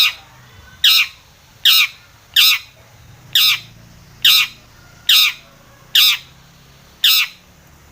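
Long-tailed shrike (cendet) giving harsh, scratchy calls, repeated about once a second, nine in all, each one sliding down in pitch.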